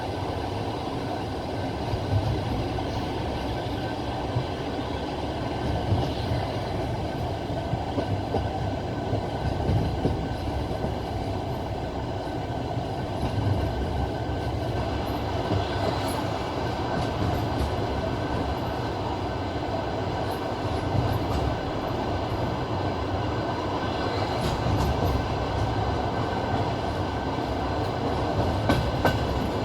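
Passenger train carriage running along the track: a steady rumble of wheels on rail, with a sharp clack of the wheels over a rail joint every few seconds.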